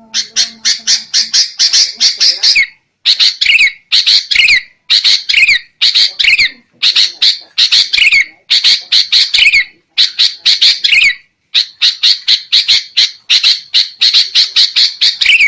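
Sooty-headed bulbul (kutilang) giving agitated chattering calls: repeated bursts of about a second of rapid harsh notes, each burst ending in a falling note, with short pauses between them. This is the noisy excited calling used as a lure to draw wild bulbuls in.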